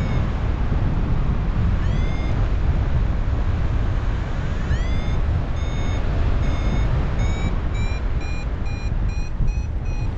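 Paragliding variometer beeping over heavy wind rush on the microphone: two rising chirps, then a run of beeps that come quicker and a little higher toward the end, the vario signalling that the glider is climbing in lift.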